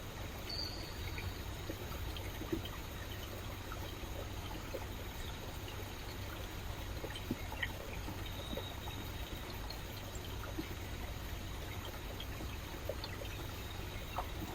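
Rainforest stream of water trickling and splashing steadily, with many small droplet ticks. A brief faint high whistle sounds twice, about half a second in and around eight seconds.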